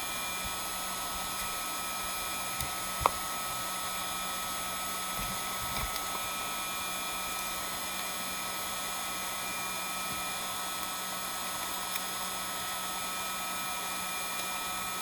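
Heat gun running steadily, its air blowing with a thin steady whine. A single sharp click stands out about three seconds in.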